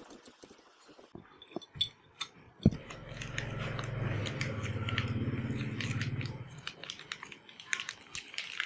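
Small metal engine parts clicking and clinking as they are handled and fitted by hand, with a sharp click about two and a half seconds in, followed by a low, fast rattle lasting about three and a half seconds.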